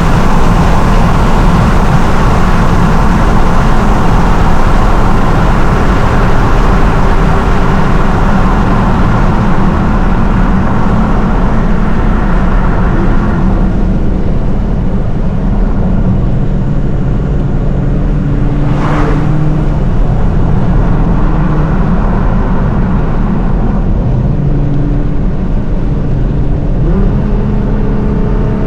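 Nissan R35 GT-R's twin-turbo V6 and exhaust under way. It is heavier and louder for roughly the first half, then eases to lighter cruising, and picks up with a short rising rev near the end.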